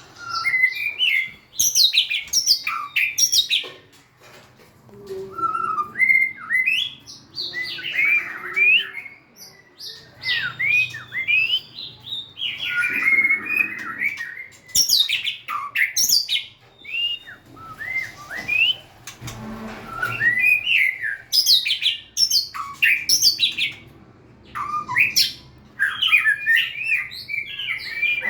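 White-rumped shama singing a varied song of loud whistled notes and quick sweeping slurs, in phrases separated by short pauses.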